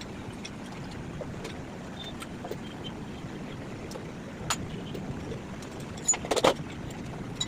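Several sharp knocks and clicks, one about halfway through and a louder quick cluster near the end, over a steady low rumble, as during work on an engine.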